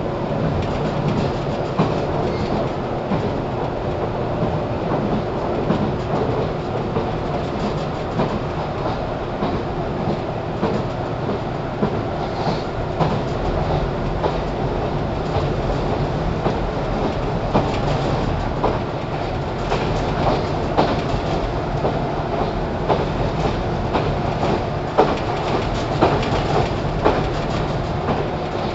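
JR 413 series electric train heard from inside its motor car while running: a steady rumble and motor hum, with the wheels clicking over rail joints at irregular intervals.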